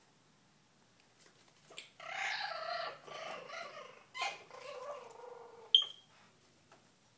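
Pomeranian puppy whining in a run of high, wavering cries starting about two seconds in, then a single sharp click near the end.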